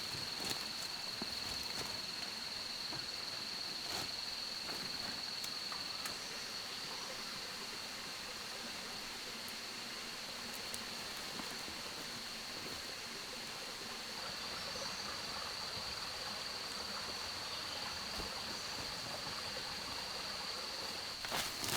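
Rainforest ambience: a steady, high-pitched insect drone held on one note over an even hiss like running water. A few light clicks or snaps come in the first few seconds and again near the end.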